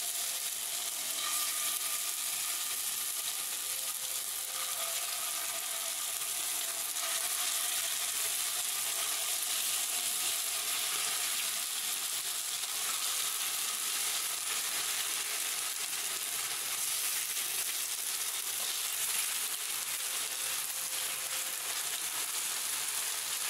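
Marinated chicken pieces sizzling steadily as they are laid one by one into hot coconut oil in a nonstick pan to shallow-fry.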